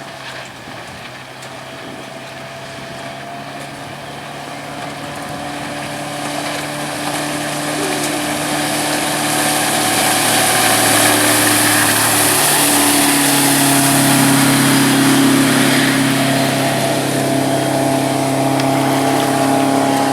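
A MerCruiser sterndrive boat engine running steadily, with a rushing hiss of water and air. It grows louder over the first ten seconds, and its hum steps up slightly in pitch about two-thirds of the way through.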